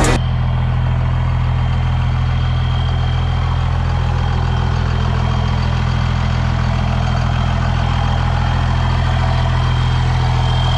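Truck engine running steadily, with a faint high-pitched whine over it.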